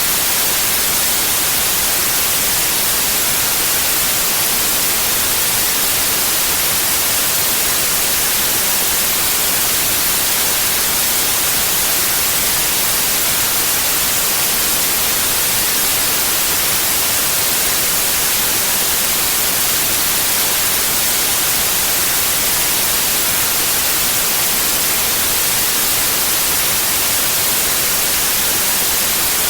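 Steady, unchanging white noise: an even hiss across all pitches, strongest in the highest frequencies, with no other sound.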